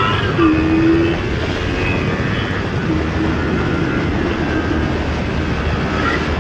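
Yamaha YZF-R3's parallel-twin engine running through an Akrapovic full-system exhaust with the baffle fitted, holding a fairly steady note while the bike is ridden, under steady wind rush.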